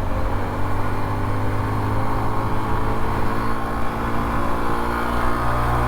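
Honda CT125 Trail's 125 cc single-cylinder four-stroke engine running steadily at cruising speed, with a constant rushing noise under it.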